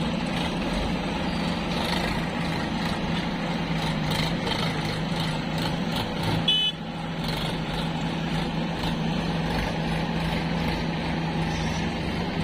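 A heavy diesel engine, from a backhoe loader or tractor, running steadily under a constant low drone. About six and a half seconds in there is a brief high-pitched sound.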